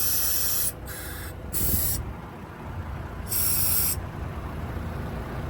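Air ride seat in a truck cab hissing in several separate bursts as air is let in or out to adjust it. Each burst lasts about half a second and cuts off sharply, over a low steady rumble.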